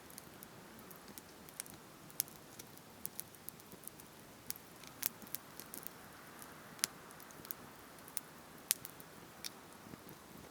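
Wood campfire crackling: irregular sharp pops and snaps of varying loudness over a soft, steady hiss of burning.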